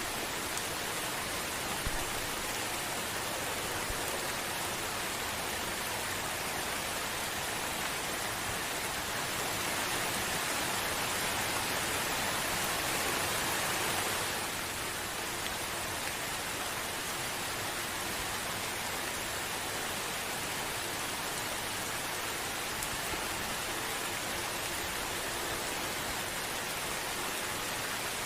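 Steady gentle rain falling, an even hiss with no thunder, swelling slightly for a few seconds around the middle.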